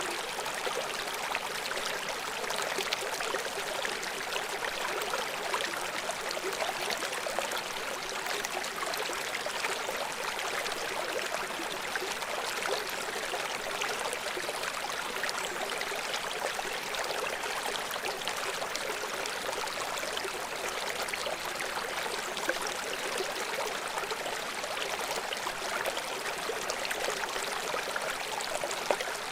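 River water flowing over rocks: a steady rushing and trickling that stays even throughout.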